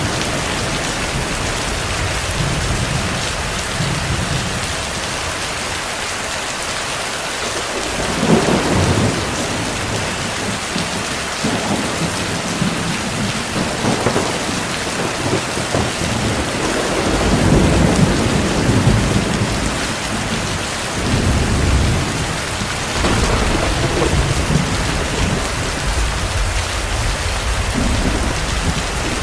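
Heavy rain falling steadily. From about a third of the way in, distant thunder rolls and rumbles low several times.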